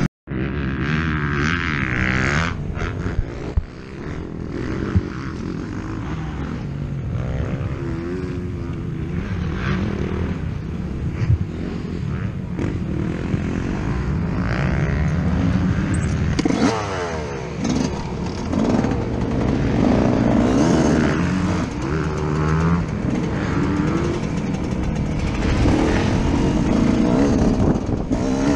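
Yamaha YZ125 two-stroke motocross engine heard from on board the bike, revving up and down again and again as the throttle opens and closes through the track, with a few sharp knocks from the bike over the ground.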